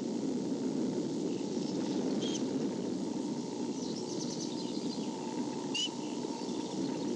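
A steady low rush of outdoor background noise, with a few short high bird chirps about two seconds in and near six seconds, and a quick run of rapid high notes around four seconds.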